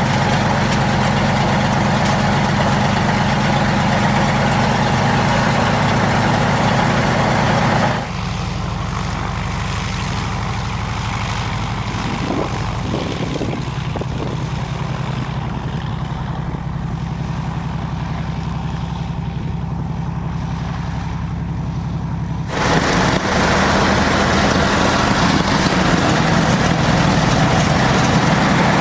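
Zlin Z-226MS trainer's single piston engine and propeller droning steadily in flight. From about eight seconds in the sound turns quieter and duller, then comes back full about fourteen seconds later.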